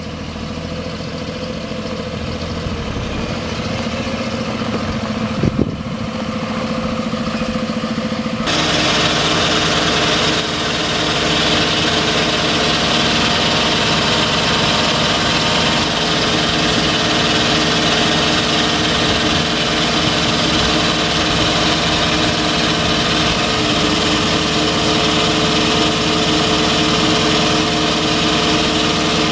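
Ford F-750 medium-duty truck engine idling steadily. There is a brief sharp clack a little over five seconds in. About eight and a half seconds in the sound jumps abruptly louder and brighter, then holds steady.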